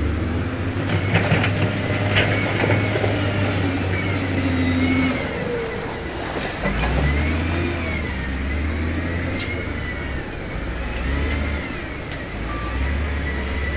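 Heavy diesel construction machinery running under changing load, its engine note dropping and picking up again several times, with a few sharp metal clanks in the first few seconds.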